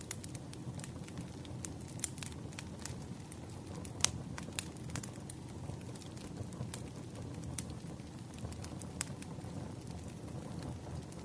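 Wood fire burning steadily, with a low rumble and frequent sharp, irregular crackles and pops, one louder pop about four seconds in.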